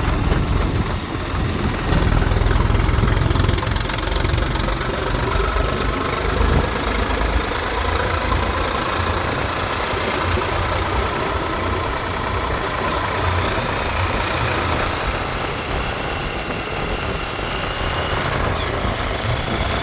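Diesel engines of a backhoe loader and a tractor running steadily while the machines work, a little louder about two to four seconds in.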